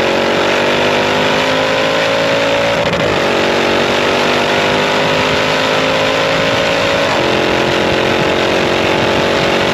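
Range Rover SVR's 5-litre supercharged V8 running through a full titanium exhaust with free-flow downpipes, heard at the rear bumper while the car accelerates. Its pitch climbs steadily and drops back at gear changes about three and seven seconds in, over a loud rush of wind and road noise.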